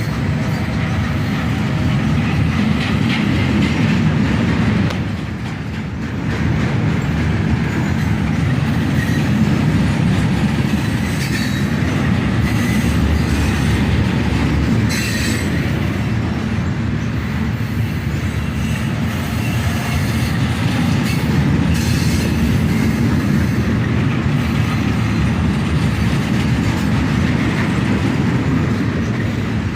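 Freight cars of a slow-moving manifest train rolling past: a steady rumble of steel wheels on the rails, broken by occasional clicks and clanks.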